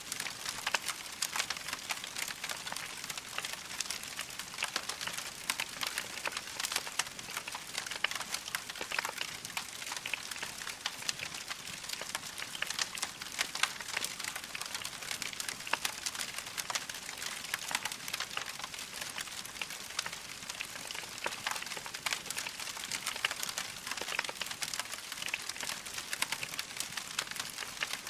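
Wood fire crackling steadily, a dense run of small sharp pops and snaps over a soft hiss.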